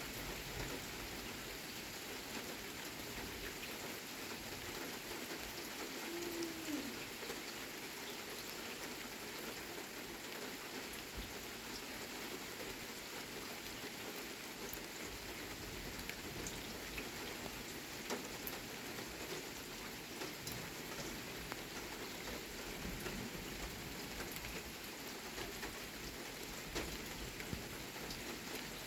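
Steady rain falling: an even hiss with scattered sharper drop hits on a surface.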